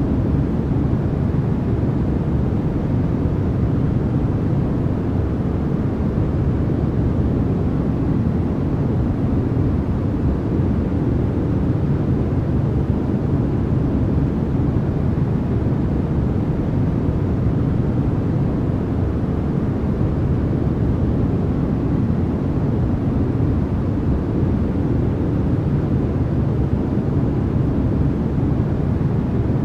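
Steady, unchanging white noise of a sleep-aid track: a constant rushing hiss, deep rather than sharp, with no variation in level.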